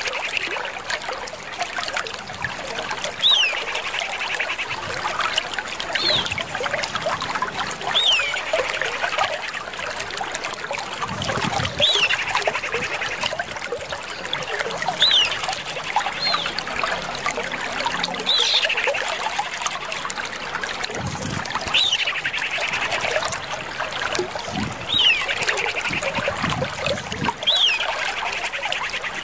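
Common iora (Aegithina tiphia) calling: a clear falling whistle repeated about every three seconds, each followed by a short rattling trill, played as a lure. Steady trickling water runs underneath.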